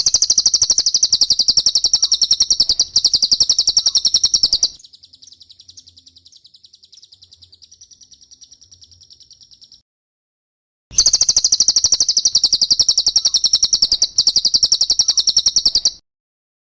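Brown cililin song played as a bird-training (masteran) recording: a fast, high-pitched trill. It is loud for about five seconds, softer for the next five, stops for a second, then comes back loud for about five more seconds.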